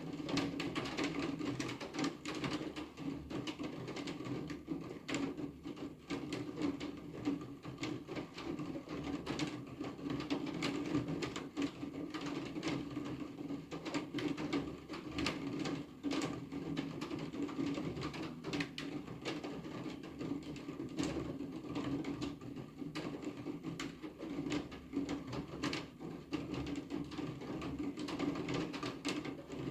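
Steady rain with dense, irregular drop impacts tapping on a hard surface.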